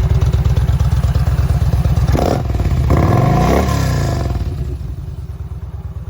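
Yamaha V-Star 950 Tourer's air-cooled V-twin with a Cobra aftermarket exhaust idling, with a short throttle blip about two seconds in, then a longer rev that rises and falls back to idle.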